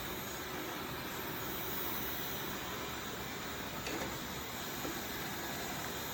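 Tikom L8000 Pro robot vacuum running, a steady whir of its suction motor and brushes.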